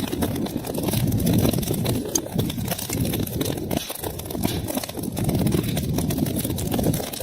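Wood fire burning in a fireplace: a steady low rumble of flames with many quick crackles and pops.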